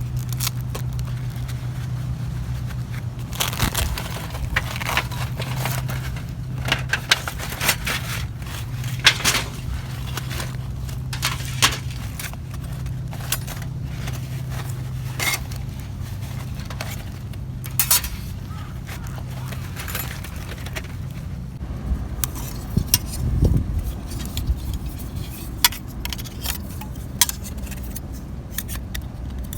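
Thin metal camp gear clinking and scraping as it is handled and set in place, in irregular light knocks and jangles, with a steady low hum behind that stops about two-thirds of the way through.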